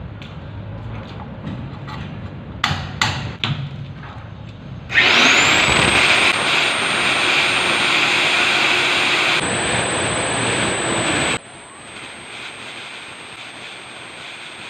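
A few knocks, then an electric core drill's motor switches on with a quickly rising whine and runs loudly at a steady high pitch for about six seconds before the level drops sharply, leaving a faint high whine.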